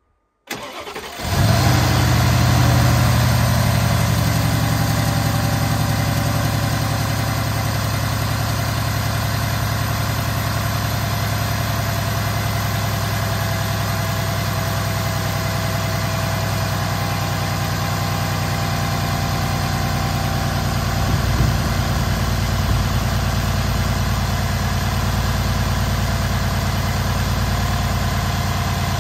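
Mercedes-Benz E500's M278 twin-turbo V8, heard from the open engine bay, started from cold. The starter cranks briefly and the engine catches about a second in with a flare to a raised fast idle, then eases down within a few seconds to a steady cold idle.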